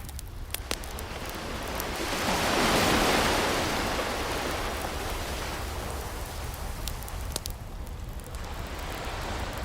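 An ocean wave breaks and washes in, swelling to its loudest about three seconds in and then slowly receding, while a wood fire crackles with scattered sharp pops.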